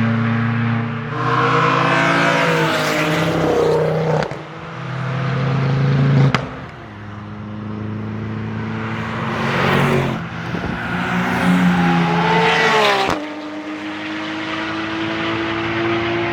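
Several cars' engines driving by and revving, their pitch climbing and falling away, with the sound changing abruptly twice.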